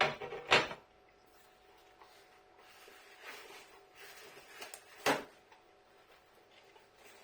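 Two sharp knocks right at the start and another about five seconds in, with soft rustling in between: handling knocks in a small room.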